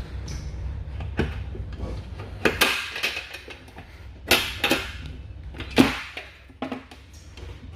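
A series of sharp clunks and knocks, about eight of them and loudest near the middle, over a low steady rumble that fades out near the end.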